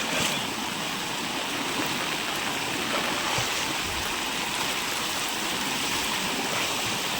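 Water rushing in a steady, even flow, like a stream or run-off of rainwater.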